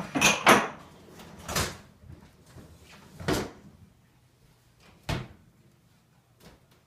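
Dishes clinking twice at the start, then a few separate knocks and thumps as kitchen drawers and cupboards are opened, shut and loaded while a dishwasher is unloaded, each one quieter than the last.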